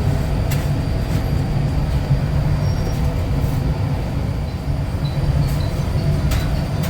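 Steady low rumble of a motorcycle on the move, engine and road noise mixed with wind on the microphone, with a few faint clicks.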